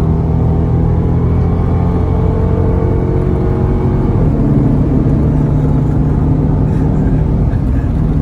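Dodge Charger R/T's 5.7-litre Hemi V8 pulling hard at freeway speed, heard from inside the car. The engine note steps to a new pitch about four seconds in.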